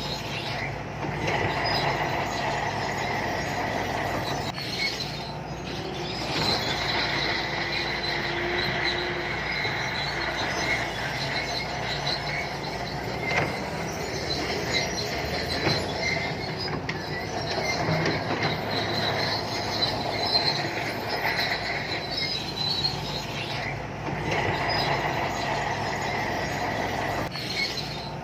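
Shantui crawler bulldozer working, its diesel engine running steadily under a high-pitched metallic squeal from the steel tracks, with occasional knocks.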